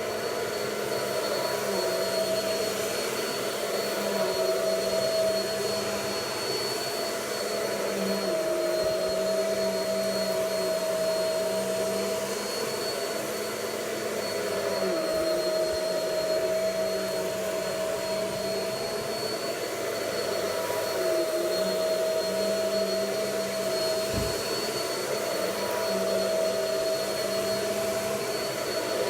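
Vacuum cleaner running steadily, its motor whine wavering slightly in pitch as it works.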